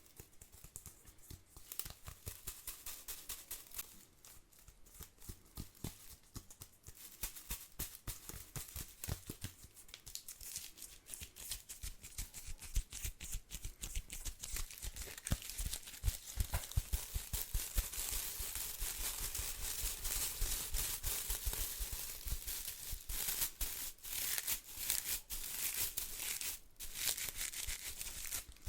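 Stiff bristles of a household broom crackling and rustling close to the microphone. It starts as sparse, separate crackles and becomes a denser, louder, continuous rustle from about halfway.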